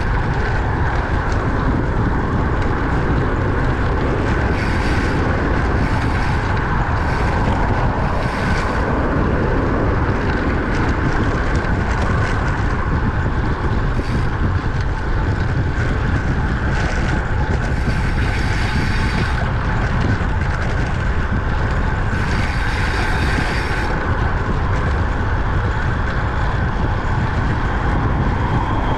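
Steady rushing wind noise on the microphone of a camera riding on a road bicycle at speed, with a low rumble of road and tyre noise. It is broken by several short stretches of brighter hiss.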